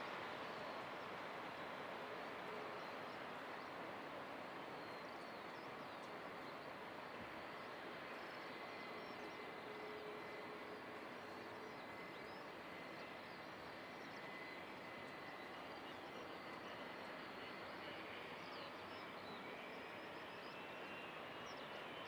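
Distant jet airliner engine noise: a steady hiss with a faint whine held on one pitch, and a rising whine near the end.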